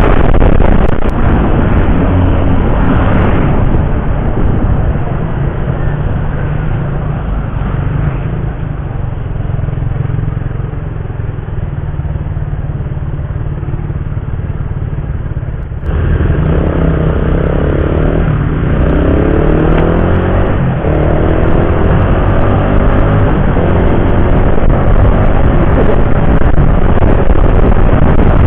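Motorcycle on the move on the road: a steady rush of wind and engine noise. It turns abruptly louder about halfway through, and the engine's pitch then rises again and again as it accelerates.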